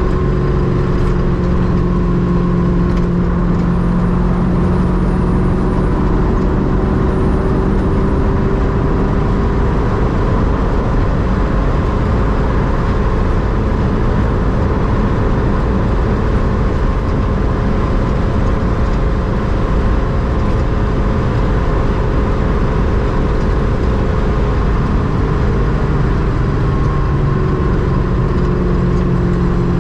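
Ultima RS kit car's LS-family V8 running steadily on the road at cruising speed, with road and tyre noise underneath. The engine note drifts gently up and down.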